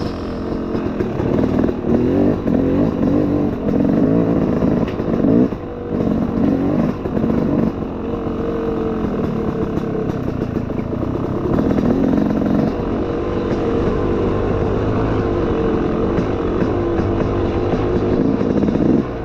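Dirt bike engine running on a trail ride, its revs rising and falling with the throttle for the first half, dropping briefly about five seconds in, then running steadier near the end.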